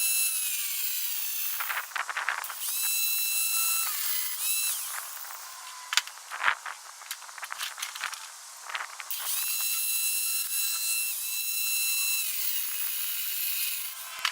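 Angle grinder cutting 1-inch square metal tubing: a high steady whine that sags briefly a couple of times as it bites into the metal. It stops for a few seconds in the middle, leaving only a few clicks and knocks, then spins up again and keeps cutting.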